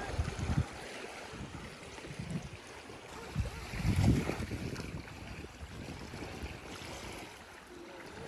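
Rustling handling noise with irregular dull low bumps, the loudest about four seconds in.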